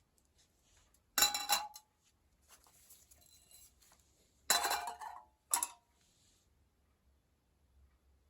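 Thin metal pieces clanking together with a short ring: a clatter about a second in, another about four and a half seconds in, followed quickly by a single clink.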